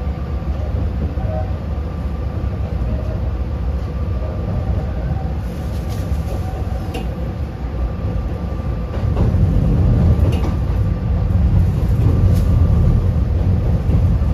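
Yokkaichi Asunarou Railway narrow-gauge train running, heard from inside the passenger car: a steady low rumble with faint steady tones and a few sharp clicks. It grows louder about nine seconds in.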